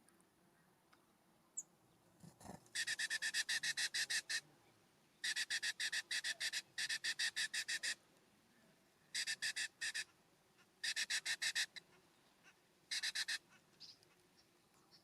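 A bird calling in six bouts of fast, harsh chattering notes, about nine notes a second, each bout lasting about a second.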